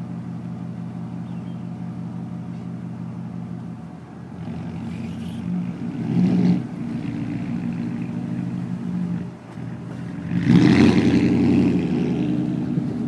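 Audi S6 engine through an aftermarket sport exhaust, idling steadily, then revved: a short blip about six seconds in and a longer, louder rev near eleven seconds that settles back down.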